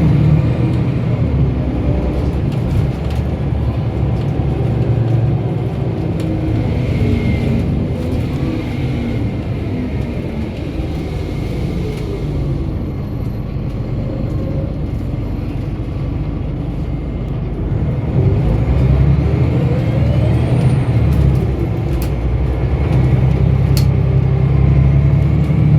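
2006 Scania L94UB bus under way, its diesel engine running: the engine note falls off as the bus slows, stays lower for several seconds, then rises and grows louder as it pulls away again about eighteen seconds in. A few sharp clicks or rattles sound near the end.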